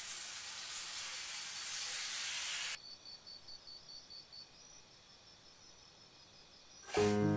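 Sauce-coated deodeok root pieces sizzling in a cast-iron skillet, a steady hiss that cuts off suddenly about three seconds in. Near quiet follows, and music comes in near the end.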